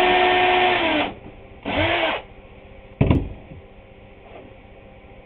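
Electric drill running steadily, then released and winding down about a second in; a short half-second trigger blip follows, then a single sharp knock about three seconds in.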